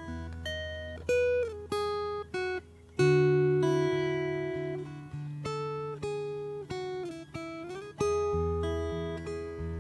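Solo acoustic guitar played slowly and softly, with single plucked notes over low bass notes and the odd sliding note.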